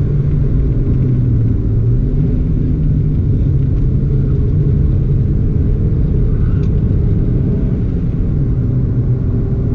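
Hyundai Getz 1.3's four-cylinder petrol engine running steadily while the car drives along, heard from inside the cabin with road rumble. The engine note dips briefly and picks up again about two seconds in.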